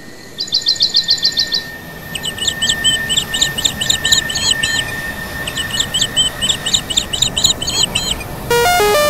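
Bird chirping in quick repeated series of high notes over a thin steady whine, the series coming in three bouts. Near the end, a burst of electronic tones stepping up and down in pitch takes over.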